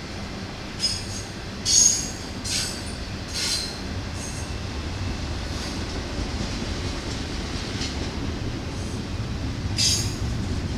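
Intermodal freight train's double-stack container well cars rolling past with a steady low rumble, broken by short high-pitched metal squeals: five in the first four seconds, the loudest about two seconds in, and one more near the end.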